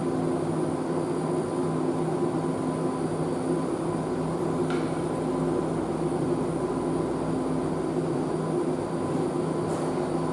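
BART train in the subway station: a steady rumble with a low, even hum of several held tones, with no rise or fall in level.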